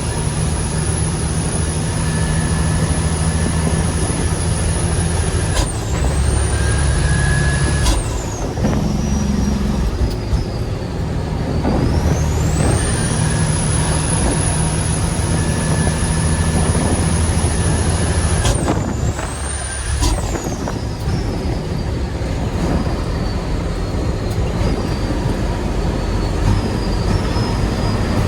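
Heavy diesel dump truck engine running under load on the road, with a high whistle that climbs, holds, then drops away sharply. The whistle drops out about six and eight seconds in, climbs back near twelve seconds, and falls away again around eighteen and twenty seconds, with the engine note changing each time.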